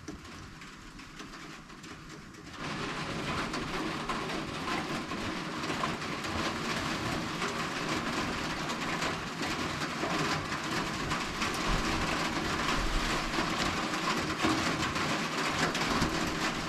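Rain falling in a dense, steady patter that picks up sharply about two and a half seconds in.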